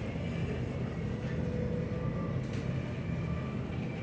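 Steady low background hum, with a faint click about two and a half seconds in.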